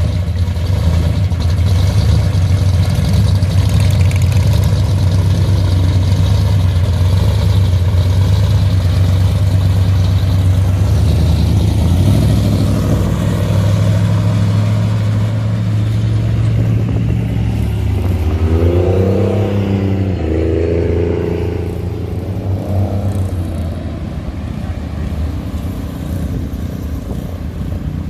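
Hot rod engines rumbling low and steady as the cars drive off. About two-thirds of the way through, an engine revs with a rising pitch, then the rumble fades a little.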